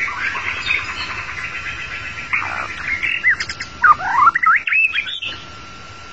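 White-rumped shama singing: a fast run of repeated chattering notes, then loud whistled notes sweeping up and down, breaking off suddenly about five seconds in.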